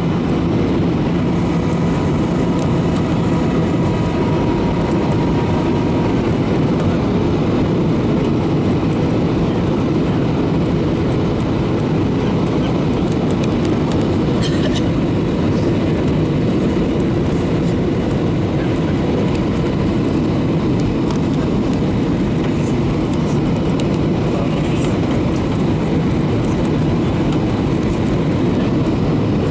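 Steady cabin noise inside a Boeing 737-800 in flight: rushing airflow and the running CFM56-7B turbofan engines, heard from a window seat.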